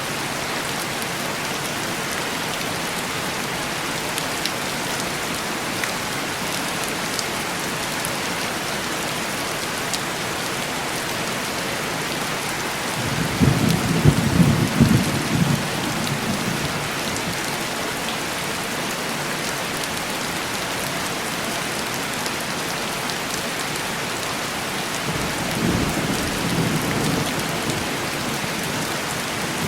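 Heavy rain on window glass, a steady hiss, with two low rumbles of thunder: a louder one about halfway in and a weaker one near the end.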